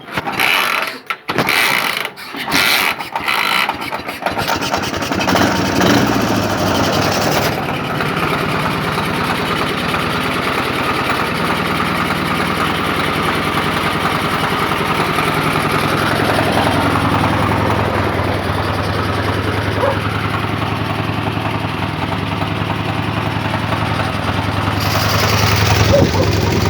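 Ural motorcycle's flat-twin engine being started: a few short, stuttering bursts, then it catches about four or five seconds in and settles into a steady idle.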